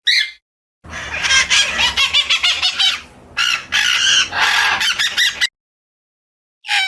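Birds calling: a short call, then a burst of rapid, dense chattering calls for about four and a half seconds, cut off abruptly, and another brief call near the end.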